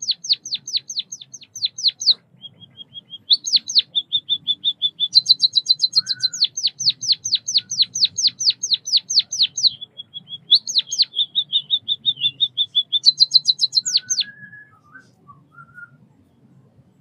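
White-headed munia singing. Runs of rapid high notes, each sweeping downward, about six a second, alternate with short, steady, buzzy trills. The song stops about 14 seconds in, and a few faint lower notes follow.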